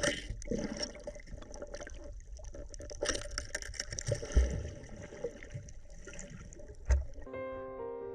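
Water splashing and bubbling close to the microphone, with two low thumps, about four and a half and seven seconds in.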